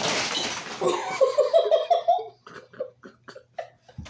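The blast of a party cannon loaded with Oreos, a loud rush of air for about the first second, followed by someone laughing in quick peals.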